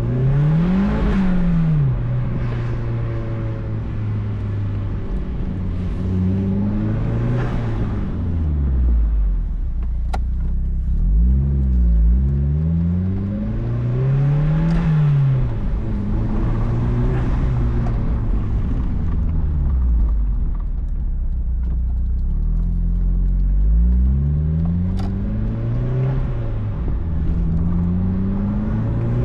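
2004 Mazdaspeed Miata's turbocharged four-cylinder engine through a cat-back exhaust, accelerating and shifting through the gears: the pitch climbs with each pull and falls back at each shift, several times over.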